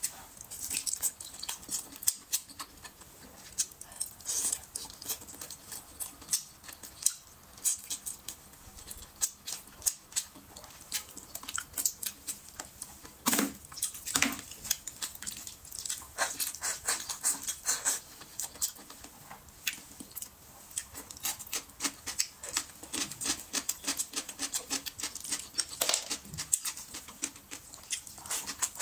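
Close-miked chewing and lip-smacking while eating braised meat off the bone: a rapid, uneven run of wet mouth clicks and smacks.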